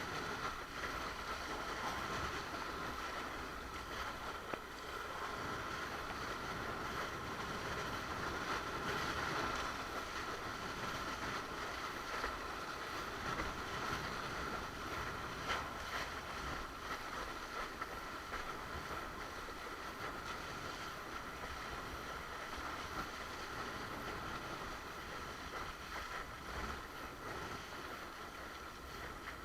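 Steady rush of water and wind as a windsurf board moves across the water, with a steady high-pitched whine running underneath.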